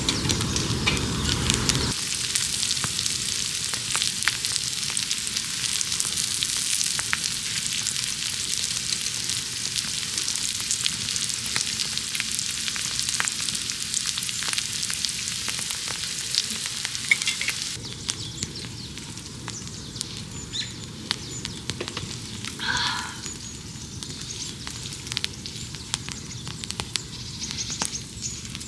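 Food frying on a cauldron-lid griddle: a dense, steady sizzle full of small pops that drops about eighteen seconds in to a quieter, sparser crackle.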